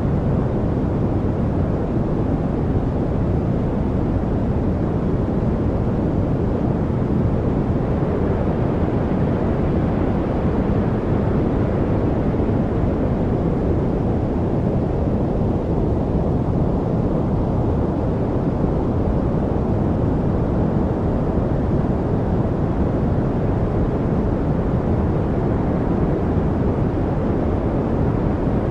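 Steady, unchanging rushing noise from a white-noise track for focus, deep and rumbling rather than hissy, with no birds, voices or other events standing out.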